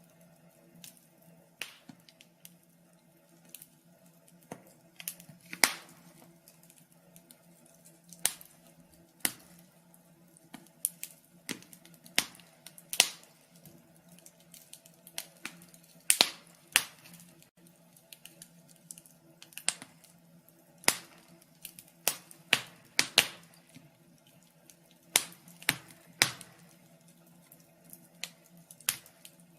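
Wood fire crackling: irregular sharp pops and snaps, a few each second with louder ones now and then, over a faint steady low hum.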